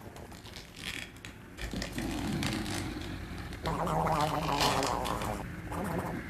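A low, rough, rattling vocal sound in two long stretches, the second louder, from about a second and a half in.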